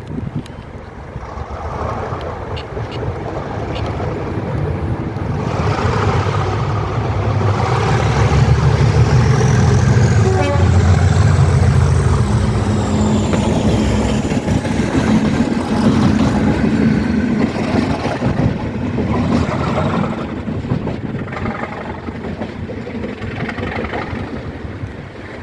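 Class 37 diesel-electric locomotive 37425, its English Electric V12 engine working hard, growing louder as it approaches, loudest about ten seconds in, then fading as it moves away. A faint high whistle rides over the engine note while it passes.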